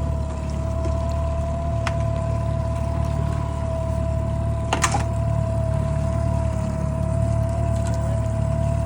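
Fishing boat's engine running steadily, a low hum with a steady whine over it, with water washing around the boat. Two brief knocks come about two seconds and five seconds in.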